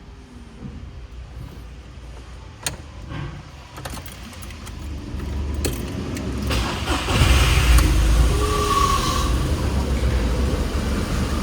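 VW Polo 9N being started: a few key clicks in the ignition, then from about six seconds in the starter cranks and the engine catches and keeps running. The battery sags to about 8 V while cranking, a sign that it is worn out and needs replacing.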